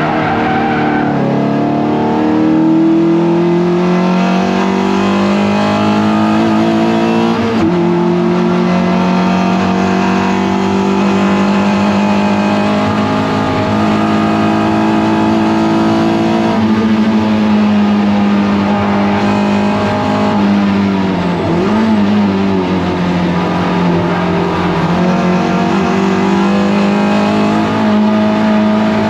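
Toyota MR2 race car engine running hard on track. The revs climb steadily and drop sharply at shifts or lifts, notably about a second in, around seven seconds in and around twenty-one seconds in.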